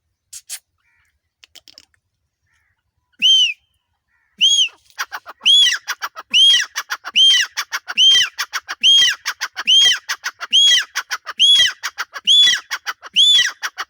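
Grey francolin calling loudly: a single arched whistled note, then a rhythmic run of the same ringing notes repeating a little under once a second, with quick short notes between them.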